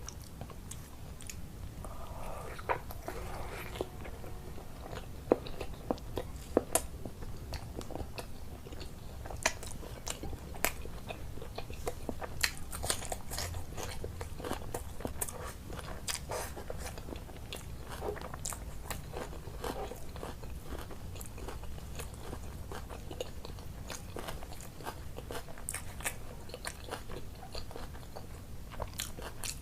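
Close-up chewing and biting of food, with frequent irregular crisp clicks and crunches and wet mouth sounds.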